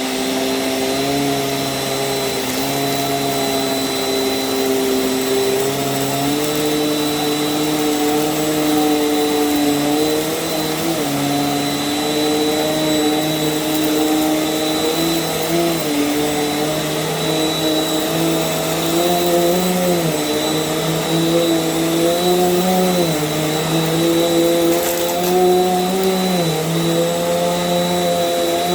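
Small Bissell vacuum cleaner running while it is pushed over a rug. Its motor hum steps up and down in pitch every few seconds as the load changes, over a steady high whine.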